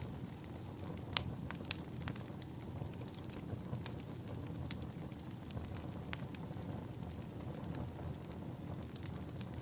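Fireplace crackling: a steady low rumble of burning wood with sharp pops and snaps scattered irregularly through it, the loudest pop about a second in.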